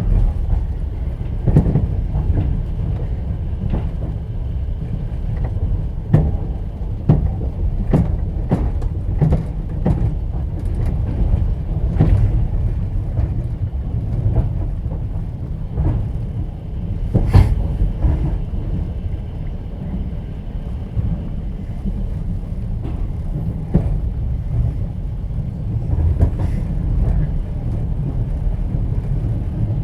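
Inside a moving platzkart sleeper carriage: the train runs with a steady low rumble, with irregular clacks and knocks of the wheels and carriage. The loudest knock comes about halfway through.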